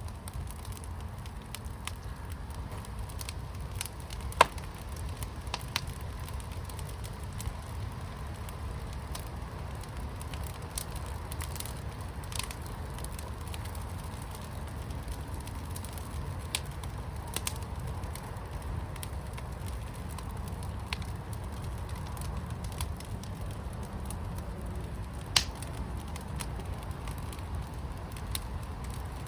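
Wood fire burning in a firepit: a low steady rumble of flame with scattered sharp pops and crackles, two louder pops about 4 seconds in and near the end.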